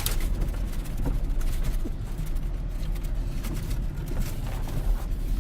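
Steady low engine and road rumble heard from inside the cab of a 2001 GMC Sierra pickup while it is being driven, with scattered light ticks over it.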